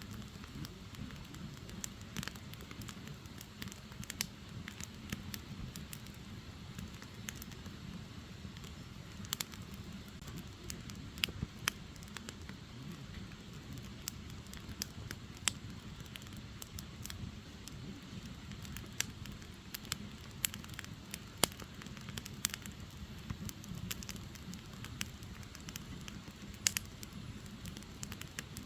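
Wood fire burning, with a steady low rush of flame and irregular sharp crackles and pops from the burning firewood, a few louder pops standing out.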